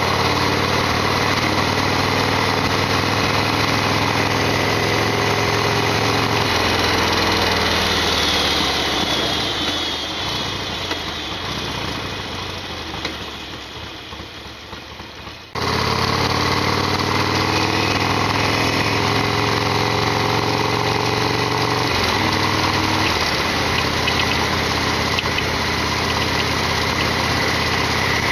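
Harley-Davidson Sportster XL1200's air-cooled V-twin engine running while riding. Its revs drop about six seconds in and the sound fades away, then full engine sound cuts back in abruptly about halfway through, with another change in engine pitch near the end.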